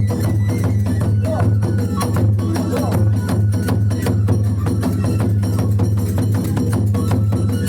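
Kagura hayashi ensemble playing a fast, driving rhythm: drums and small hand cymbals struck in rapid, even strokes, with a melody line above them. A steady low hum runs underneath.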